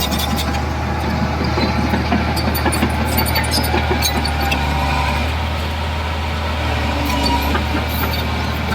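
Heavy diesel construction machinery running steadily with a low drone, with scattered short metallic clanks and squeaks over it.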